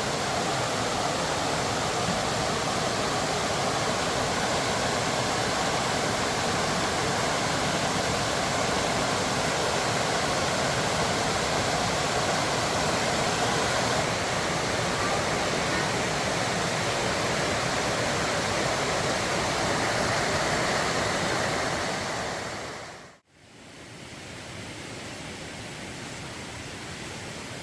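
Steady rushing water noise. It fades out about 23 seconds in and gives way to a quieter steady hiss.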